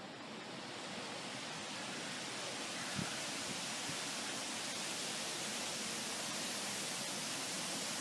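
A gust of wind: a steady rush of noise that builds over the first couple of seconds and then holds, with a faint knock about three seconds in.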